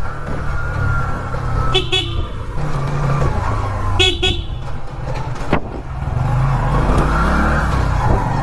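Motorcycle engine and road noise riding through traffic, with short horn beeps in quick pairs about two seconds in and again about four seconds in.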